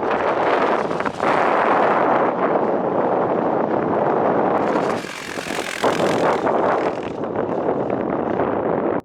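Heavy wind noise on the microphone of a trail motorcycle under way, with the bike's running noise mixed into a loud, even rush. It dips slightly about five seconds in and cuts off abruptly at the end.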